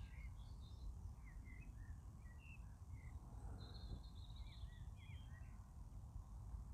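Faint birdsong: small birds chirping in short, scattered calls, with one longer, higher call about four seconds in, over a low steady background rumble.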